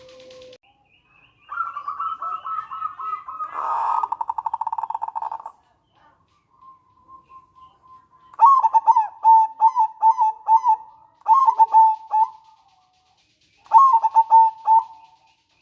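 Zebra dove (perkutut) calling: a quick run of notes breaking into a short buzzy trill, then after a pause two bouts of its clipped, staccato cooing song.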